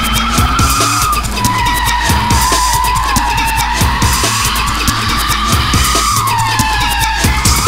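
Car tyres squealing in a long, wavering screech as a car slides sideways through the corners in a drift, the pitch dipping and rising with the slide.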